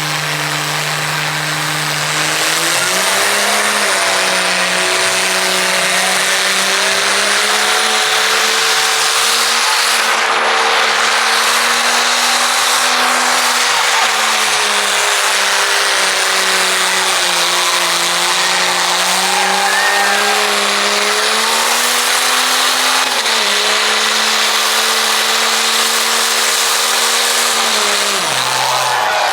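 Engine held at high revs for a long stretch, its pitch wavering slightly up and down, over a loud steady hiss; the revs drop away near the end.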